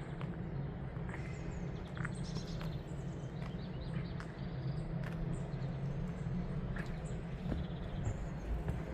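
Small birds chirping and calling now and then over a steady low rumble of outdoor background noise, with scattered soft clicks.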